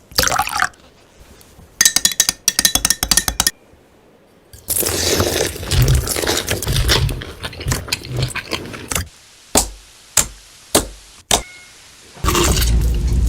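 Close-miked mukbang eating sounds of fried chicken and a burger: crisp crackling crunches and chewing, with handling noise and a few separate sharp clicks about two-thirds of the way through.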